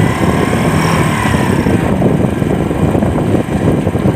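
Vehicle engine running steadily on the move, with wind rushing over the microphone.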